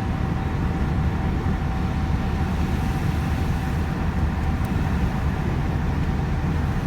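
Steady engine and road rumble inside the cab of a 2005 Ford Explorer Sport Trac, its 4.0-litre V6 cruising at about 50 mph in fourth gear. A faint steady whine stops about five seconds in.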